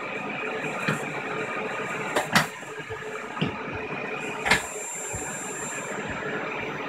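Vacuum cleaner running steadily, with four short knocks or bumps over the hum; the loudest comes about two seconds in.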